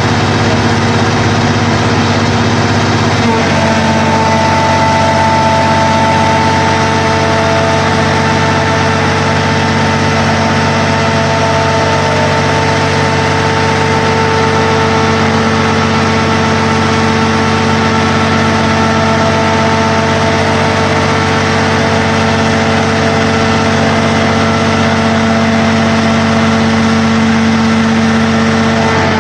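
Sierra 4200 scrap-car baler running steadily under power, a constant machine drone with a held whine; about three seconds in the whine changes pitch and a higher tone joins it.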